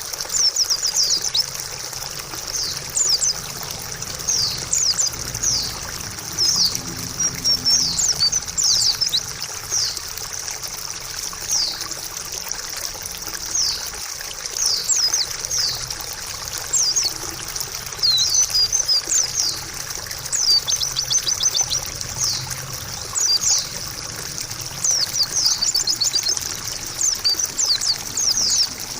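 White-eye (pleci) singing: quick, high twittering chirps, each sweeping downward, in runs through the whole stretch. Steady trickling water runs underneath.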